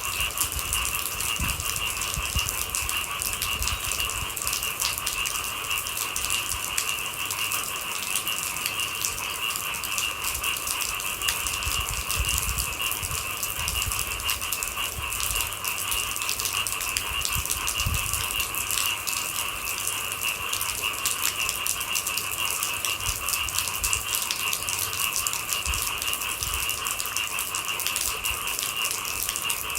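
Steady rain pattering densely, a constant rattle of many drops at once.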